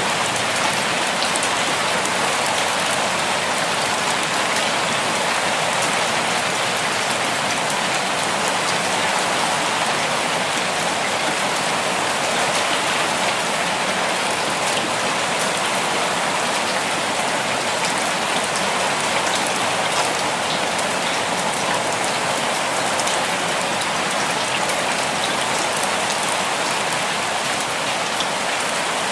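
Steady rainfall, an even hiss of drops striking a surface, with fine scattered drop ticks throughout.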